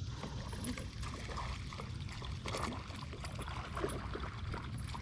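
Water splashing and trickling around a boat, irregular small splashes over a steady low rumble.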